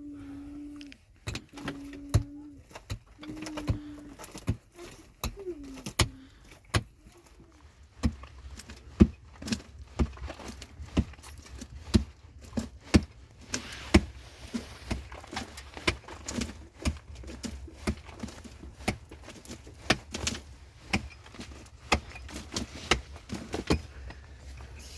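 Hand tools digging into earth and rock: a steady run of sharp strikes, about one to two a second. In the first few seconds there are several short, low hoots.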